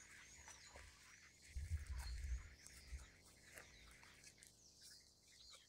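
Faint bird calls, many short chirps, over footsteps in dry grass, with a brief low rumble on the microphone about a second and a half in.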